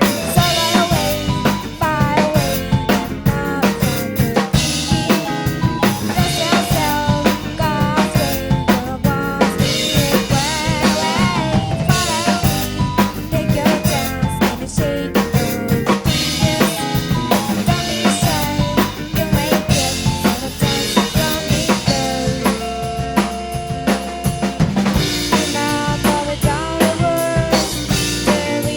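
Drum kit played along to a recorded Shibuya-kei pop song, with snare, rimshots and bass drum over the recording's melody.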